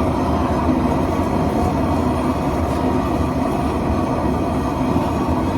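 Loud, steady rush of a gas torch flame heating the anvil face to about 300 degrees before welding.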